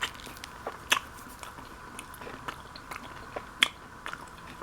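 Close-up chewing of a Subway sandwich, with scattered wet mouth clicks and smacks, the sharpest about a second in and again near three and a half seconds, over a steady low hiss.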